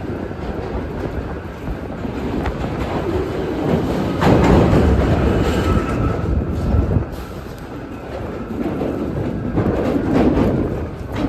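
New York City subway train running along the track, growing louder about four seconds in.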